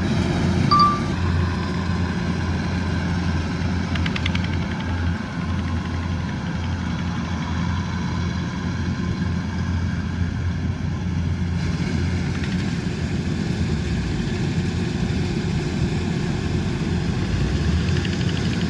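Kubota DC108X combine harvester's diesel engine running steadily under load, a constant low drone. A brief high-pitched chirp sounds about a second in.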